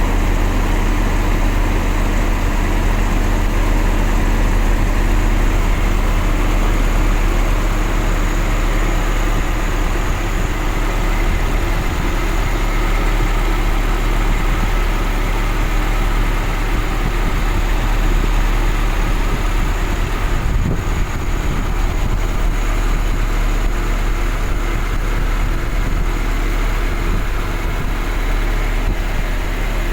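Isuzu truck engine running steadily, with a deep, even low hum throughout.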